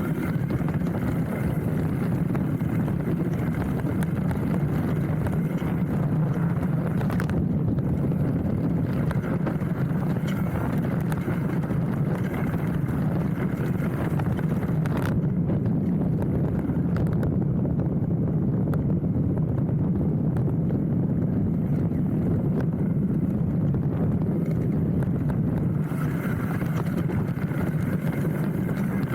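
Hardtail mountain bike riding down a dirt trail: a steady rumble of tyres on the ground with constant small clicks and rattles from the bike, heard through the handlebar mount, with wind on the microphone.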